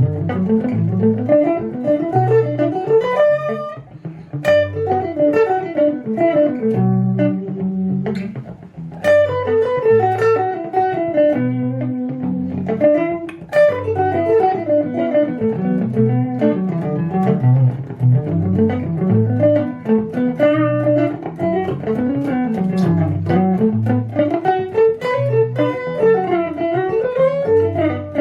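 Guitar improvising a solo on the B minor pentatonic scale, in fast runs of grouped notes that climb and fall, over a steady repeating low accompaniment.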